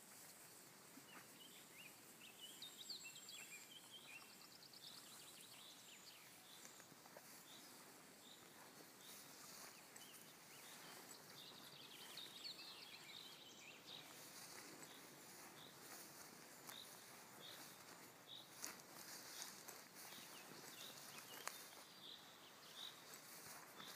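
Near-silent meadow ambience with faint birdsong: scattered chirps early on, then a bird repeating one short high note a little more than once a second through the second half. A few soft rustles of footsteps in grass.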